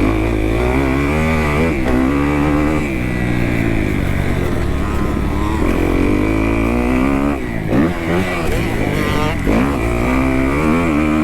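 2018 Kawasaki KX250F's single-cylinder four-stroke engine ridden hard on a motocross track, the revs rising and falling again and again as the throttle opens and closes through shifts. About two-thirds of the way in the throttle is chopped briefly a couple of times, with quick swings in pitch.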